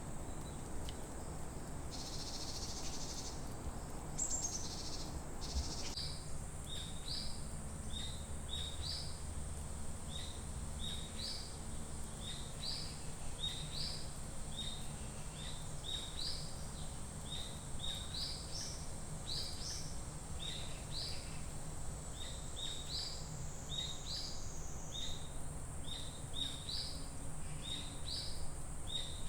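Forest ambience: a bird repeating a short, high chirp about twice a second, over a steady high insect drone and a low background rumble.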